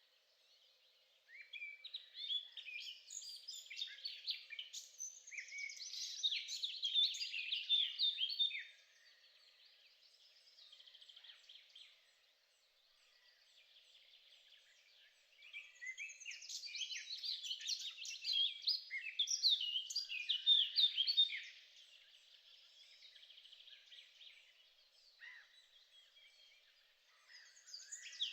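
Birdsong: two long bouts of rapid, twittering song, each lasting six to seven seconds with a quieter gap between, and another bout starting near the end.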